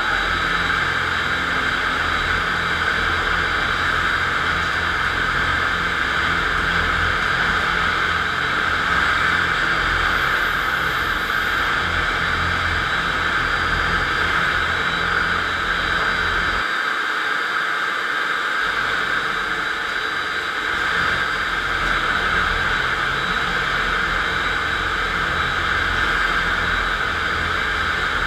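FastPrep concrete floor grinder's electric motor running steadily while its 16-grit diamond grinding plates cut a concrete floor, a continuous grinding whir. The low rumble drops out for about two seconds past the middle.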